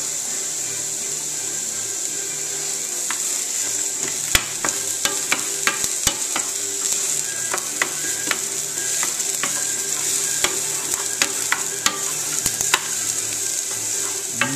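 Carrot sticks and ginger sizzling steadily in a hot nonstick frying pan. From about four seconds in, a wooden spoon stirs them, giving quick, irregular clicks and knocks against the pan.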